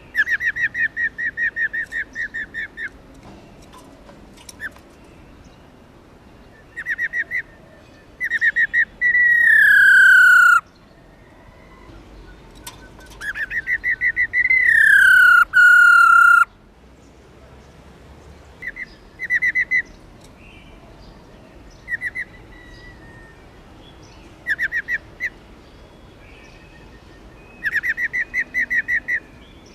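Female black-throated laughingthrush giving its rolling 'ro ro' call: bouts of rapid trilled notes near 2 kHz, with quiet gaps between them. Twice, about nine and fourteen seconds in, a trill runs into a long, loud, falling whistle.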